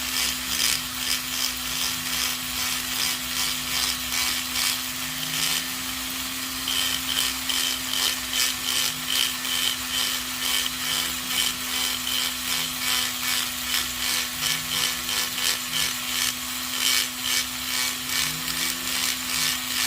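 Small rotary carving tool running with a steady hum while its bit grinds into buffalo horn, rasping in repeated strokes about twice a second.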